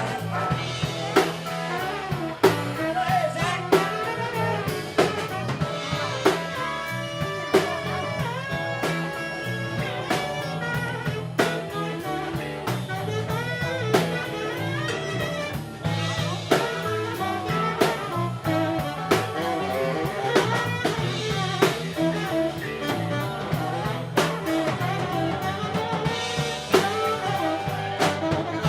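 Live blues-jazz band music: a drum kit keeps a steady beat under a bass line and melodic instrument lines, with some sliding notes in the middle.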